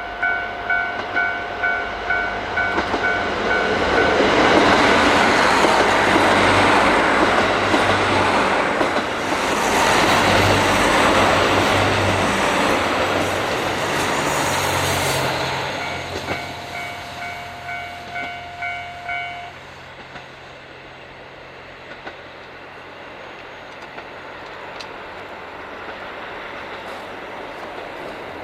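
Level crossing alarm bell dinging about twice a second while a diesel train passes, its engine and wheels loud for about twelve seconds and drowning out the bell. The bell is heard again after the train has gone, stops at about 19 seconds, and the train's sound fades away.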